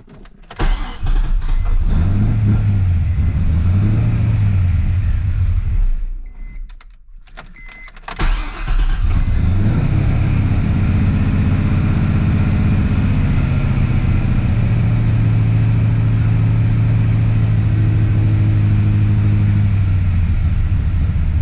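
LS V8 swapped into a BMW E46 starting cold, running with two brief rises and falls in revs, then cutting out about six seconds in. It is restarted about two seconds later and settles into a steady idle; the engine is not yet warm enough to keep running on its own.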